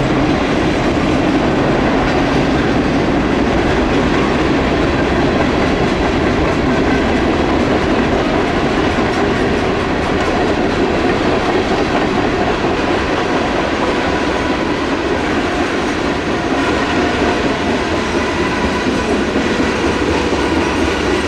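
Freight train cars rolling past, a steady rumble of steel wheels on the rails with clickety-clack over the rail joints.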